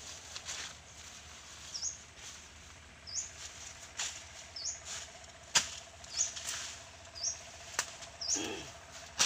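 A small bird's short, high chirp repeated about every second and a half, with a few sharp knocks in between, the loudest about halfway through.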